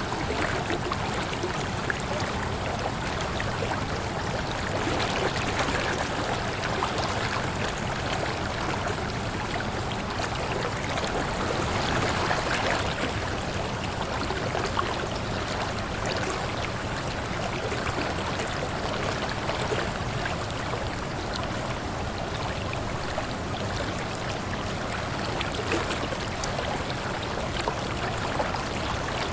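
Waterfall: a steady rush of falling water, with slight swells and splashing.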